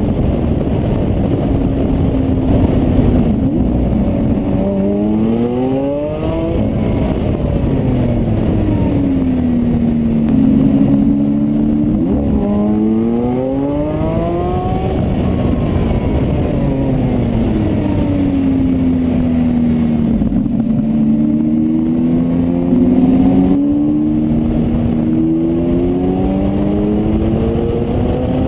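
Lamborghini Aventador's V12 engine pulling hard in runs of quick rising steps through the gears, then easing off with the pitch falling slowly as the car slows, several times over.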